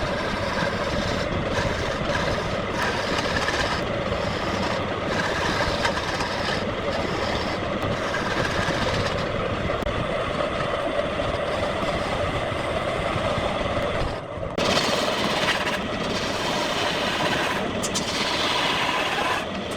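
Wood lathe running steadily with a continuous mechanical noise, broken by a brief sudden dip about fourteen seconds in.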